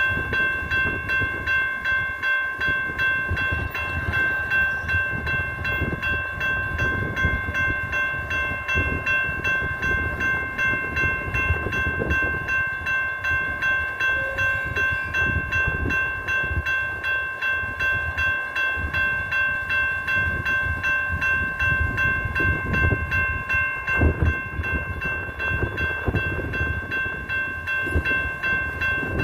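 Light rail train running on the track, a low rumble with scattered knocks from the wheels and rails, under a steady high ringing tone that pulses about twice a second.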